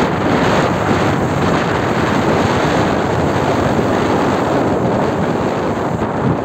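Steady rush of wind on the microphone and moving-vehicle noise while riding a bike.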